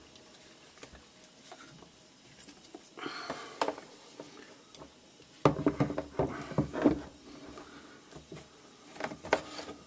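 Hard plastic parts of a pressure washer being handled during reassembly. The parts knock and click in a quick series a little over halfway through, with a few more clicks near the end and a brief rustle before.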